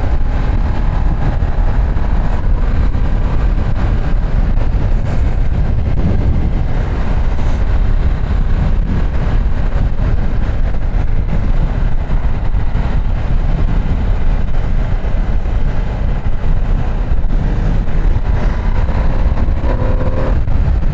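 Ducati Streetfighter V2 S L-twin running under way, heard on the rider's mic beneath a steady heavy rumble of wind and road noise. Near the end the engine note rises as the bike accelerates.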